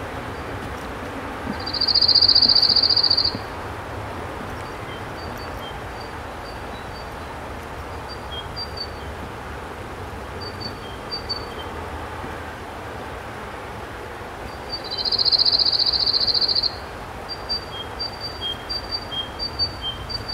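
A small songbird giving a rapid, high trill of about two seconds, twice, with short high chirps in between and after.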